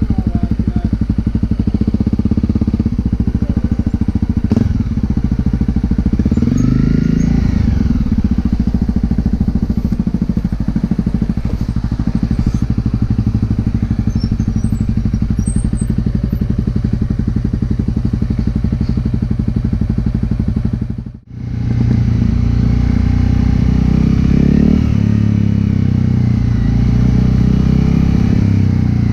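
Honda CRF250L single-cylinder engine running through a Yoshimura aftermarket exhaust, held at steady revs with the pitch rising and falling a couple of times as the throttle changes. The sound drops out sharply for a moment about two-thirds of the way through.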